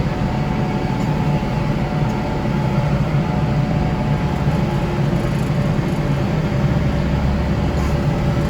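Kubota tractor and its front-mounted snow blower running steadily, a constant low engine drone.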